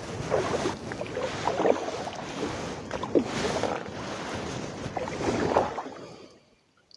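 Canoe paddle strokes in calm water, about one every two seconds, each with the splash and gurgle of water swirling off the blade. The sound fades away near the end.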